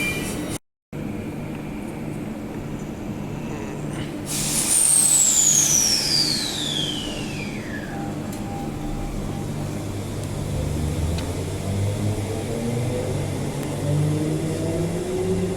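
Electric suburban train's traction motor whine falling steadily in pitch over about four seconds as the train slows, over a steady low hum; near the end, lower tones start rising as a train pulls away.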